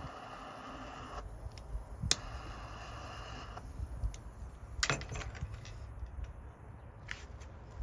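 Small wood fire crackling in a compact wood stove, with scattered sharp pops and clicks, the strongest about two seconds in and again near five seconds.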